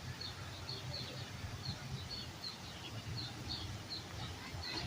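Small birds chirping, with short high chirps repeating a few times a second over a low steady outdoor rumble.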